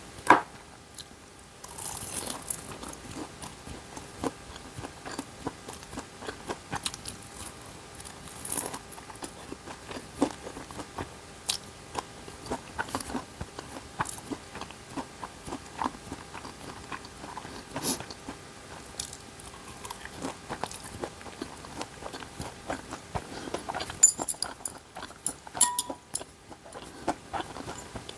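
A person eating ramen and dumplings up close: chewing and biting mouth sounds, with many short sharp clicks and taps scattered throughout.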